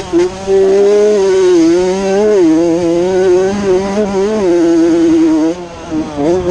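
Honda CR80 single-cylinder two-stroke motocross bike engine running at high revs, the note rising and falling with the throttle. Near the end the rider briefly backs off and the engine drops, then opens up again.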